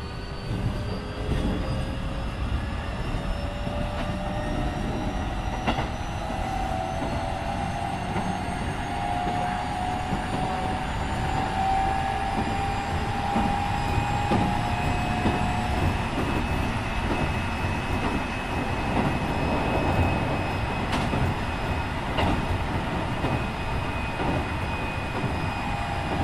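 Keikyu 1500 series electric train with a Mitsubishi IGBT-VVVF inverter, heard from inside the motor car as it accelerates: the inverter and traction-motor whine rises steadily in pitch, then fades out a little past halfway. Under it runs the steady rumble of wheels on rails, with a few rail-joint clicks.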